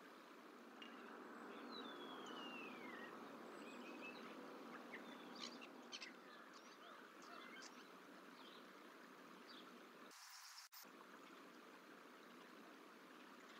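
Faint outdoor ambience with distant wild bird calls: a falling whistle about two seconds in, then scattered short chirps. The sound briefly cuts out near the end.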